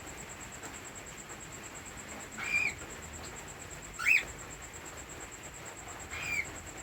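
Cockatiel giving three short chirping calls about two seconds apart, the middle one the loudest and sweeping sharply upward.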